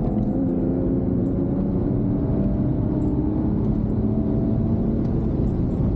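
Car engine pulling steadily at speed, heard from inside the cabin, its note rising slowly over road and wind noise.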